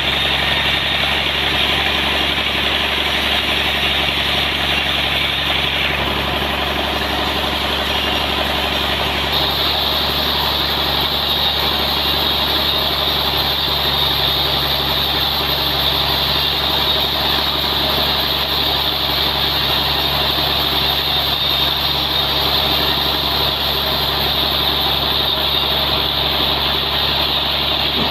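Sawmill engine running steadily, with a continuous saw hiss over it that gets brighter about nine seconds in.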